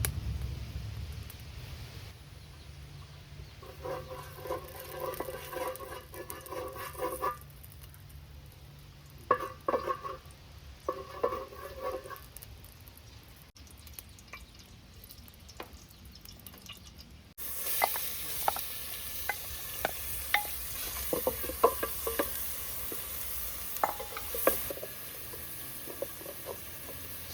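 Food frying in a pot with steady sizzling and a utensil stirring and clicking against the pot. This starts abruptly about two-thirds of the way in. Before that come a few short spells of a high squeaking sound.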